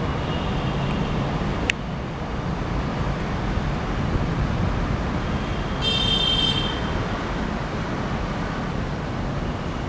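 Steady low rumble of a passenger train running away down the track. There is a sharp click just under two seconds in, and a brief high-pitched whine about six seconds in.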